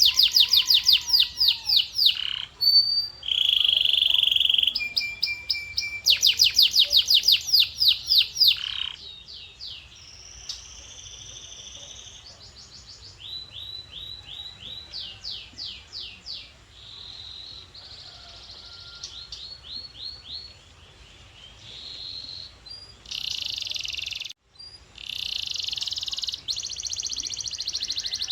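Domestic canary singing: rapid trills of repeated high notes alternating with buzzy held tours, loud for the first nine seconds, then softer varied phrases, with a brief pause just after 24 s before a loud tour returns.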